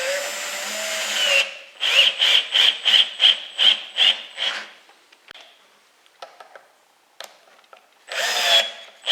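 Power drill driving faceplate screws into a spalted oak bowl blank: a run of motor whine, then about eight short trigger blips, about three a second, as the screws are run down, and another short burst near the end.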